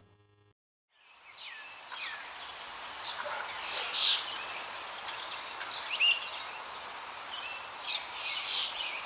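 Several birds chirping and calling over a steady background hiss, starting about a second in.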